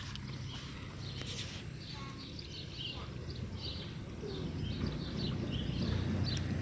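Birds chirping in a quick run of short, repeated calls, over a low rumbling noise that grows louder toward the end.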